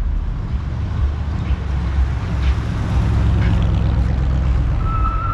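Car engine running with a deep, steady exhaust drone. A high steady tone starts just before the end.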